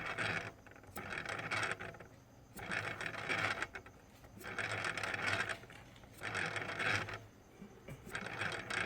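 DJI Inspire 2 propeller and motor spun by hand six times, each spin giving about a second of grinding, scraping noise. The prop has a lot of play, and the owner can't tell whether a bearing, the motor or a loose prop is to blame.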